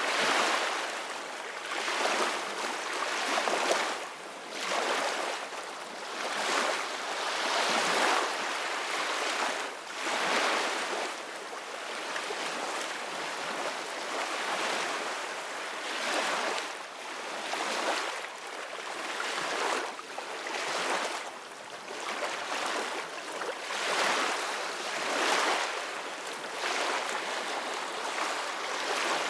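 Ocean waves washing onto a shore: a steady hiss of surf that swells and falls back every two or three seconds, with little deep rumble.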